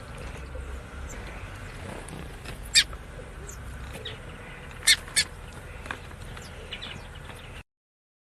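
Birds chirping: several short, sharp high chirps over a low steady rumble, the loudest three about three and five seconds in. The sound cuts off suddenly near the end.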